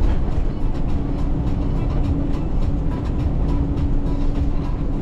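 Semi-truck cab noise while driving: a steady low rumble of engine and road with a constant hum, and frequent light ticks and knocks over it.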